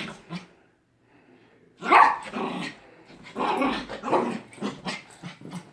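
A dog barking and growling in a series of short bursts, with a pause after the first second and the loudest bark about two seconds in.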